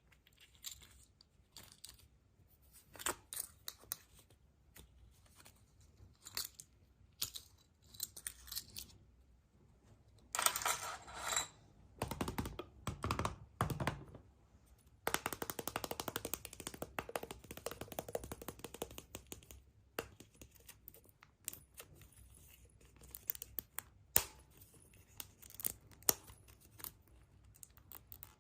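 Hands unwrapping and opening surprise eggs: scattered clicks and taps of plastic capsules and toy parts, with bursts of crinkling wrapper about ten seconds in and again from about fifteen to twenty seconds in.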